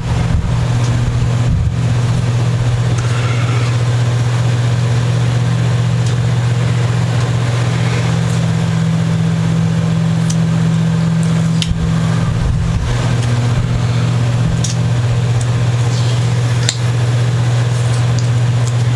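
A steady low hum, like a motor or electrical hum, runs throughout at an even level, with a few faint ticks and rustles of handling over it.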